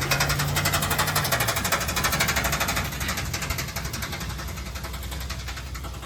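A motor vehicle engine running with a fast, even rattle of exhaust pulses. It is loudest over the first half and eases off toward the end.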